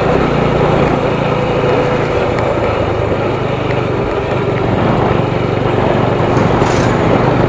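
Motorcycle engine running steadily while riding, under a dense rush of road and wind noise.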